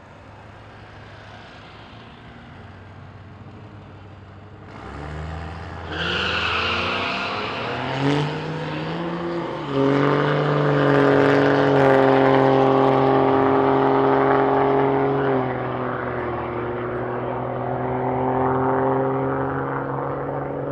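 Drag-racing truck engine running low at first, then launching about five seconds in. At full throttle the pitch climbs and drops back at each of two gear changes, then holds a steady high note, easing off a little about fifteen seconds in.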